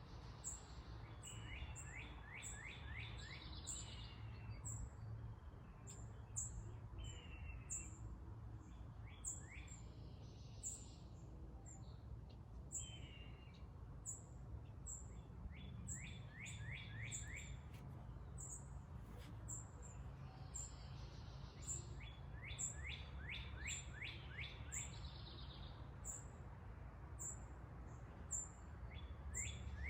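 Wild birds singing: one repeats a quick run of down-slurred whistled notes every several seconds, among steady high chirps from others, over a faint low outdoor rumble.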